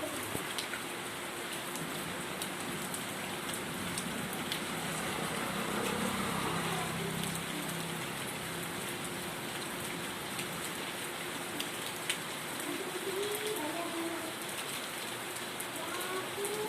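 Rain falling steadily, with scattered individual drops ticking sharply on a surface.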